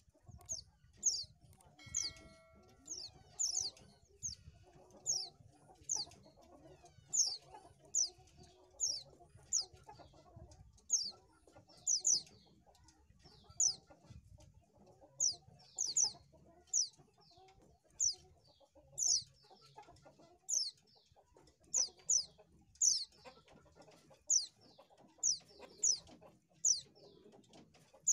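White-eye (pleci) calling: a steady series of short, sharp, very high chirps, often in quick pairs, about one or two a second.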